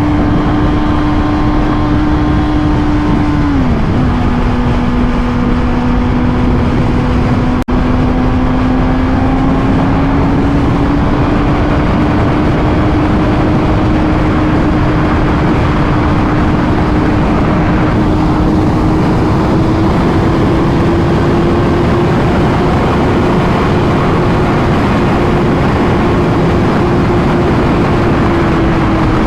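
Honda inline-four sportbike engine pulling at road speed under a heavy rush of wind. About three and a half seconds in, an upshift drops the engine note, which then climbs slowly as the bike picks up speed.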